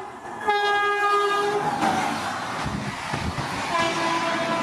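Electric locomotive's multi-tone horn blown as the train runs through at speed, its pitch dropping as the engine passes. The horn then gives way to the loud rush of the express coaches going by, with wheels clattering over the rail joints.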